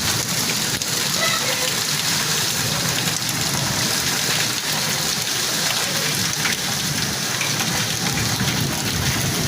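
Steady heavy rain pouring down and pattering on surfaces, an even hiss.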